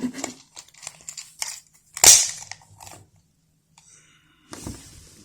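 Plastic game controller shell being handled and pressed together: light clicks and knocks, with one loud sharp snap about two seconds in and another knock near the end.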